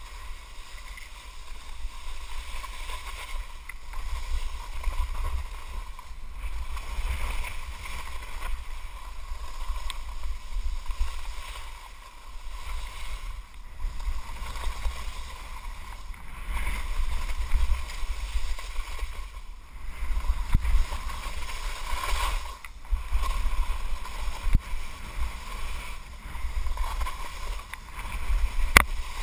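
Skis hissing and scraping over snow during a ski descent, with wind rumbling on the microphone; the swish swells and fades every few seconds. A couple of sharp clicks come near the end.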